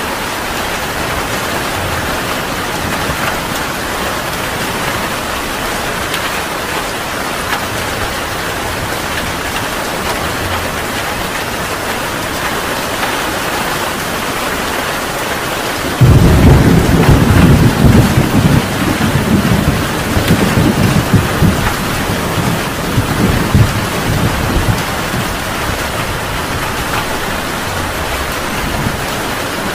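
Heavy rain falling steadily with a hiss. About halfway through a loud thunderclap breaks in suddenly and rumbles on for several seconds, rolling and fading back under the rain.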